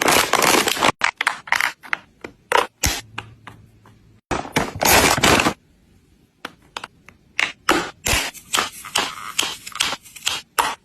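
Packaged drinks and snacks handled and set into a mini-fridge: an irregular run of short scrapes, rustles and knocks, with two longer scraping sounds at the start and about halfway.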